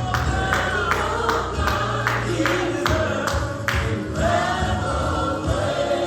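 Gospel choir singing over a band with a steady drum and cymbal beat, the beat fading about two-thirds of the way through while the voices hold on.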